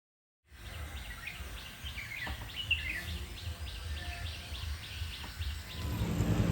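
Outdoor ambience of many birds chirping over a low rumble, starting about half a second in after a moment of silence. Near the end a louder low, steady drone comes in.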